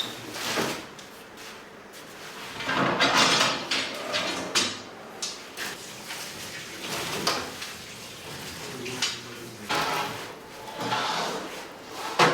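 A series of sliding scrapes and swishes about a second or two apart, with a sharp knock near the end: bakery equipment being slid and handled.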